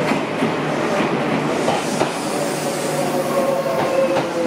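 Odakyu electric commuter train pulling into the platform, its wheels clicking over rail joints as the cars roll past. From about halfway through, a whine slowly falls in pitch as the train slows.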